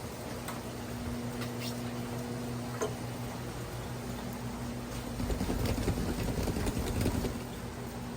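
Hurricane rain and wind, a steady rush of rain with a stronger gust swelling about five seconds in for a couple of seconds. A steady low hum runs underneath.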